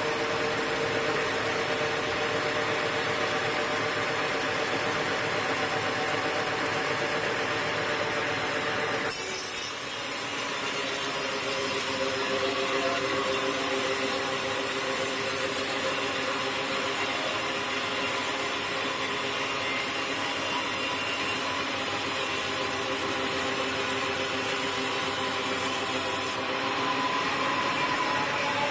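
Sawmill saw and its motor running steadily while cutting wood. The sound changes about nine seconds in, with an added high hiss that stops again near the end.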